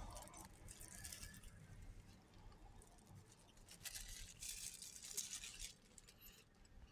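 Faint chewing and crunching of a toasted bread sandwich, heard as soft scattered crackles over near silence.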